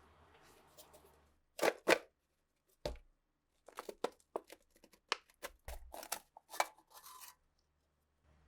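Sharp clicks and knocks from hands working on pistol parts. Two louder knocks come about two seconds in, then a quicker run of smaller clicks stops about a second before the end.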